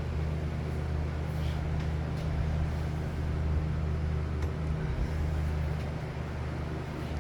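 A steady low mechanical hum that holds one even pitch, with a few faint clicks.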